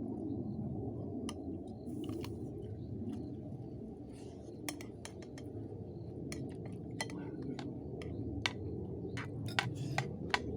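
Tableware clinking: cutlery tapping and scraping against plates and glasses as food is served, in scattered sharp clicks that grow more frequent in the second half. A steady low background noise runs beneath.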